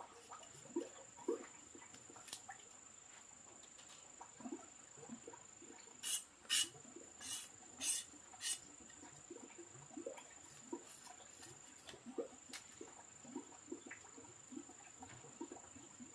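Insects trilling steadily at a high pitch. About six sharp clicks or knocks come in quick succession midway, with faint small taps scattered throughout.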